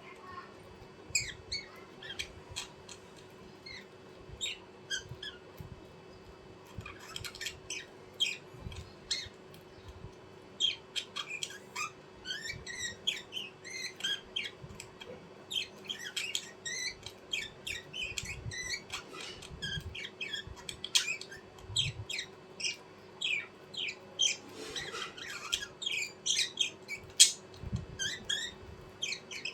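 Small birds chirping and squeaking in quick, short calls, many overlapping, sparse at first and busier from about seven seconds in.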